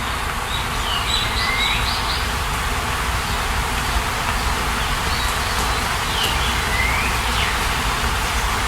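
A steady rushing hiss like rain, with a bird singing two short phrases of sweeping whistles, the first about half a second in and the second around five seconds in.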